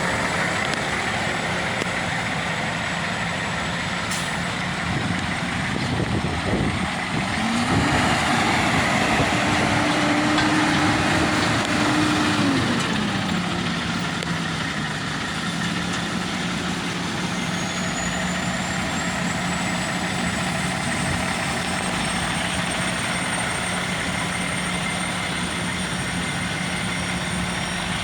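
Engine of a 2015 Peterbilt 320 roll-off hook truck idling steadily. About seven seconds in it runs up to a higher speed, holds there for about five seconds, then drops back to idle.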